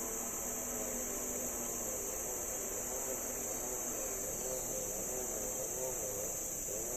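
Steady high-pitched insect chorus, with a fainter low hum underneath that wavers up and down in pitch.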